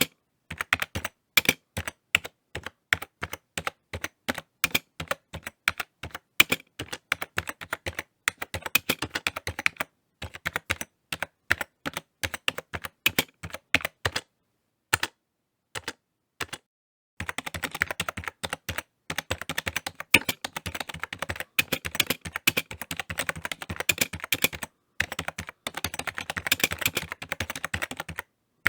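Computer keyboard being typed on: rapid runs of key clicks in bursts, with short pauses about a third and halfway through and a brief one near the end, and a denser, faster stretch over the last third.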